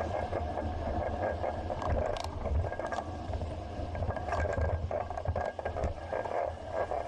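Riding noise picked up by a bicycle-mounted action camera: a steady rumble of road and wind with many small rattling clicks from the bike and the camera mount.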